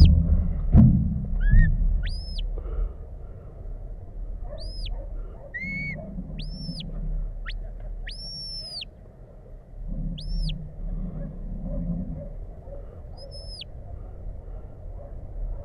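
Shepherd's whistle commands to a working sheepdog: about nine short, high whistle blasts, each rising quickly, held and dropping away, given at uneven gaps. One near the middle is longer than the rest. A low rumble comes in the first couple of seconds.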